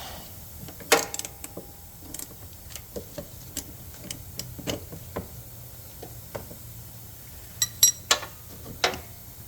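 Irregular metallic clicks and clinks of hand tools and small metal engine parts being handled, with a sharp clink about a second in and a few ringing clinks close together near the end.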